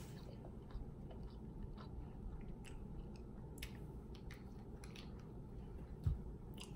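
Quiet chewing with scattered small mouth clicks, then one low thump about six seconds in as a glass Tabasco bottle is set down on the table.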